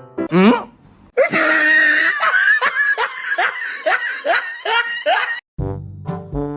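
Someone laughing hard in quick, repeated, breathy bursts, about two a second, for roughly four seconds, after a short rising sweep. Music comes back in near the end.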